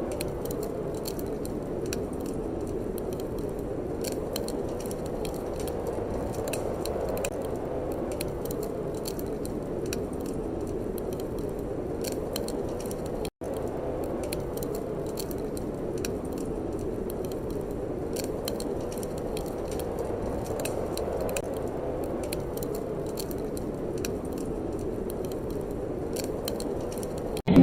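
Wood fire crackling: scattered sharp pops and snaps over a steady soft rush, with a brief dropout about halfway through.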